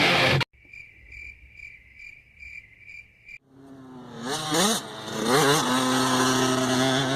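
Music cuts off just after the start, leaving a cricket chirping evenly, about two to three chirps a second. About three seconds in, an 85cc two-stroke dirt bike engine comes in, its revs rising and falling in several blips, and grows louder than the chirping, which carries on faintly behind it.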